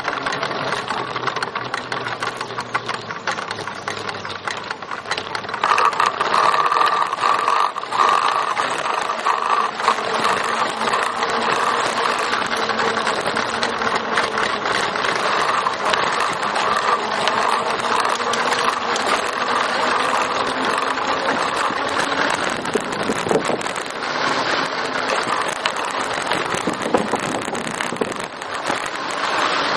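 A trike being ridden: steady rolling and rattling noise, which grows louder about six seconds in.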